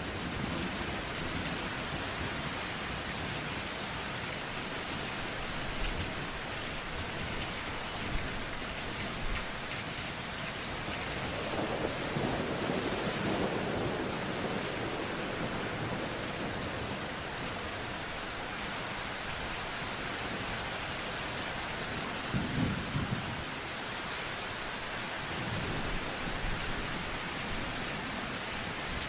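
Steady rain falling, with thunder rumbling in the distance: a longer roll about halfway through and a shorter one a few seconds later.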